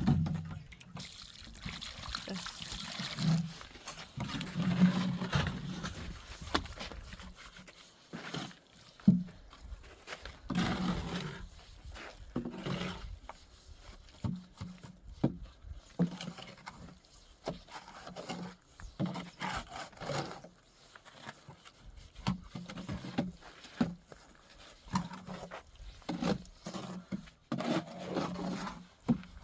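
Irregular scraping, scuffing and short knocks of hand work in a sand and cement mix, with no steady machine sound.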